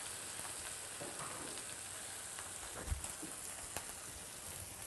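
Mixed vegetables (bell peppers, zucchini, onion, cherry tomatoes) sizzling quietly in olive oil in a stainless-steel wok over a gas flame, a steady hiss with a few light clicks.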